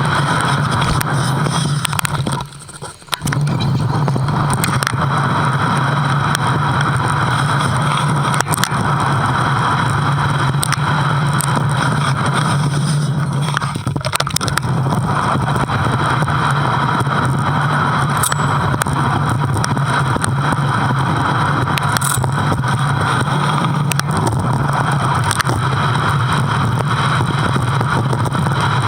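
Steady, loud riding noise from a bike on the move, the rush of wind and running vehicle noise picked up by a GoPro, with a brief drop-out about two and a half seconds in.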